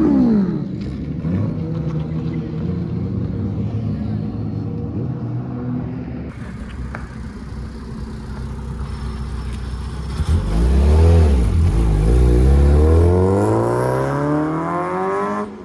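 Car engine with its revs falling back at the start, running steadily, then surging about ten seconds in and revving up with a rising pitch over the last few seconds.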